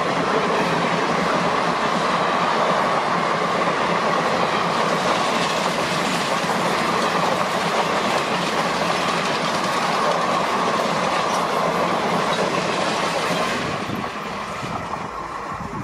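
Passenger coaches of an express train running past at speed: steady wheel-and-rail noise with clatter over the rail joints. About 13 seconds in, the sound drops to a quieter, duller rumble.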